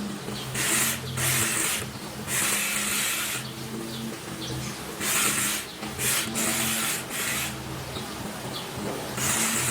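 A cow's tail-switch hair being cut: repeated rasping strokes, each about half a second to a second long, some in quick pairs, with short pauses between.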